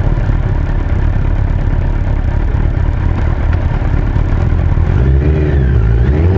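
Suzuki Hayabusa GSX-1300R's inline-four engine running while riding, under heavy wind rumble. The engine pitch rises and falls about five seconds in.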